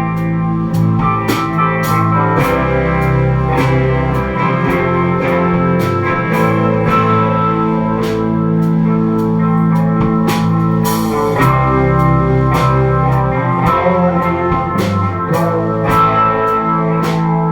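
Live indie rock band playing an instrumental stretch: guitars holding chords over bass and a drum kit keeping a steady beat.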